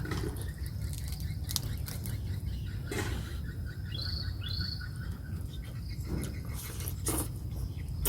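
Outdoor ambience: a bird gives a few short rising chirps over a steady low hum and faint insect sound. Scattered short clicks and taps are also heard.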